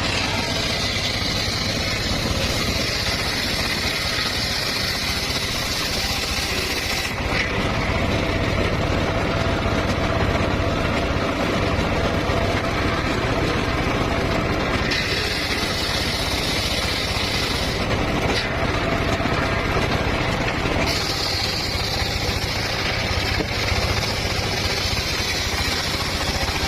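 Homemade circular sawmill running steadily, its engine drone continuous, with the higher whine of the blade cutting through a log in three long stretches: the first several seconds, again midway, and again near the end.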